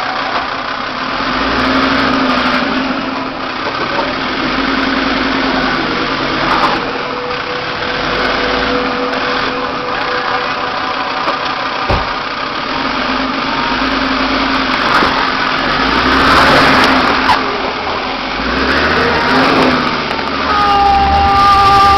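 Land Rover 4x4's engine running at low speed as it crawls over a rough, rocky track, with one sharp knock about halfway through. Music comes in near the end.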